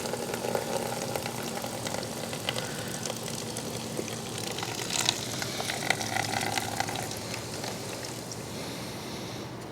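Liquid pouring and splashing steadily into a drain pan, with two small sharp knocks about five and six seconds in.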